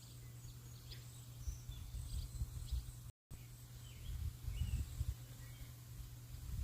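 Scattered short bird chirps over an irregular low rumble, with a thin steady high whine behind them. The sound cuts out completely for a moment about three seconds in.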